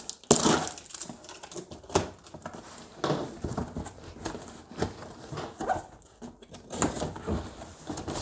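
Irregular rustling, clicks and knocks of packaging and parts being handled by hand.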